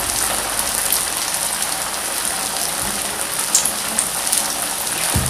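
Vegetable fritters frying in hot oil in a pan: a steady sizzle with scattered crackles.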